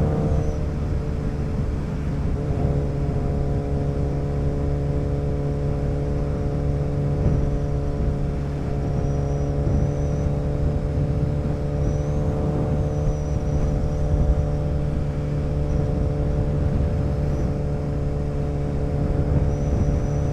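Motorcycle engine running at a steady speed while cruising, its note holding constant pitch throughout.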